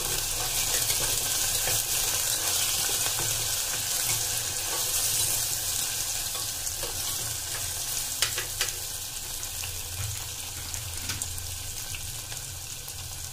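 Potato chunks and onions sizzling in hot oil in a pressure cooker, a steady hiss of frying. A metal slotted spoon stirs them, with a few short scrapes and taps against the pot.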